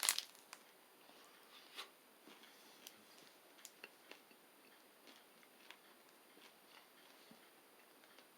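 A person biting into and chewing a peanut energy bar studded with nuts and pumpkin seeds. There is a sharp crunch at the start, then faint, irregular crunching clicks.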